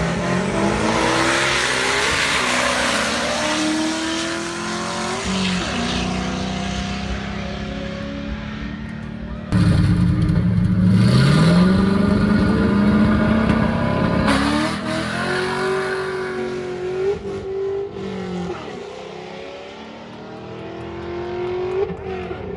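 Drag-racing V8 engines at full throttle, pulling through the gears: the engine pitch climbs and then drops back at each shift. The sound jumps abruptly about ten and fourteen seconds in, where it cuts between separate clips.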